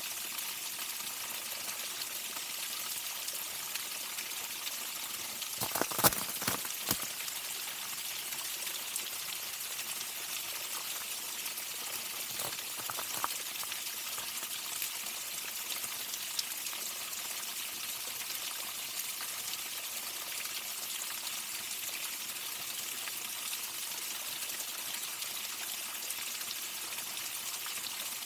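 Waterfall: a steady hiss of falling and splashing water. A cluster of sharp clicks or knocks comes about six seconds in, with a few fainter ones about twelve to thirteen seconds in.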